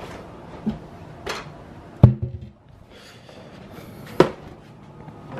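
Kitchen handling sounds: a few separate knocks and bumps as things are set down and cupboards handled. The loudest comes about two seconds in with a short low ring, and another sharp knock follows about two seconds later.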